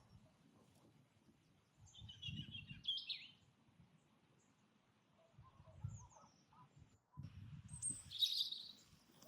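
Songbirds singing faintly in two short bursts of quick chirping notes, one about two seconds in and a louder one near the end. Faint low rumbles come and go underneath.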